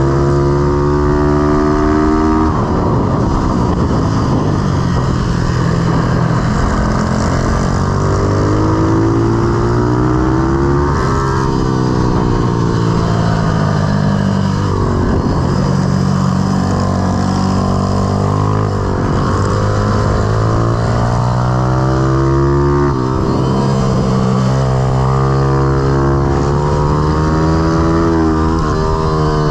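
Pitbike's IMR YX160 single-cylinder four-stroke engine at full ride, revving up and dropping back again and again as the bike accelerates, shifts and brakes, about five big rises and falls, over a steady rush of wind and road noise.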